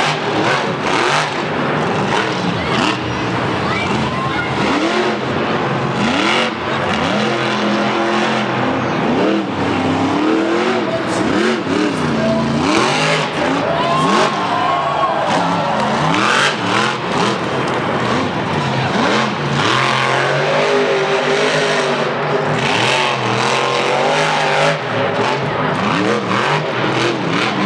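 Monster truck engines revving hard again and again, their pitch sweeping up and down every second or two.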